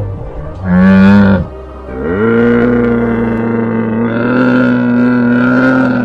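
Livestock animal lowing: a short call about a second in, then a long, steady call held for about four seconds.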